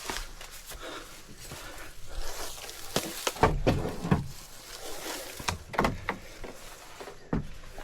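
Rustling and crackling of brush and branches, broken by several heavy thumps, loudest a little past the middle, as cut logs and limbs are dragged and dropped out of the way.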